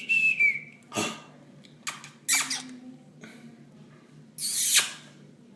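A Senegal parrot ends a short whistle, then gives a few short harsh squawks, with the longest and loudest one near the end. A sharp click comes about a second in.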